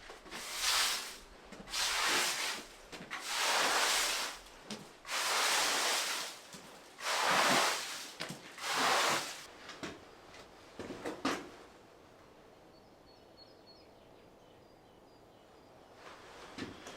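Handloom weaving: a run of about six swishing, sliding strokes roughly a second and a half apart, followed by a few light clicks, then a pause.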